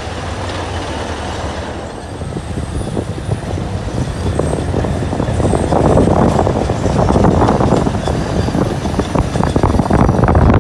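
Train running on the track with a dense clatter, growing louder from about four seconds in.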